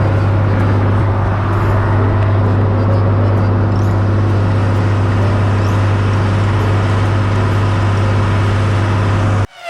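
Fishing boat's engine running steadily with a strong low hum and a wash of noise, cut off suddenly near the end.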